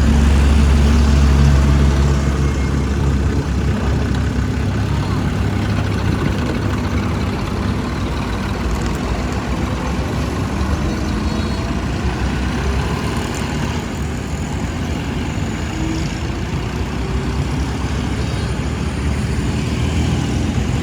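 Tractor engine running with a steady low rumble, a little louder for the first two seconds, with voices faintly in the background.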